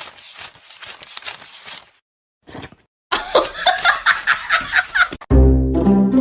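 A soft, quick patter, then a person laughing in short breathy bursts. Near the end the audio cuts abruptly to loud, steady horn-like tones with music.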